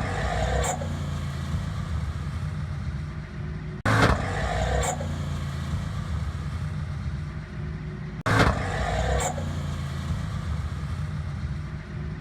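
1988 Ford Mustang GT's 5.0 V8 running hard as its AOD automatic transmission misses the shift into second gear, making a weird noise that sounded really bad. The same short clip plays three times, each one starting with a sudden loud burst.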